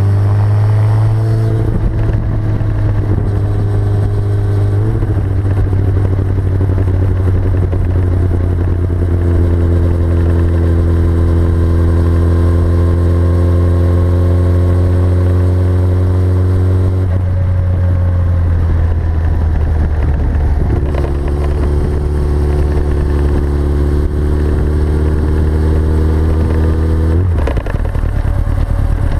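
2004 Yamaha R6's inline-four running steadily through a full Akrapovič exhaust, its note stepping up and down a few times and dropping sharply near the end.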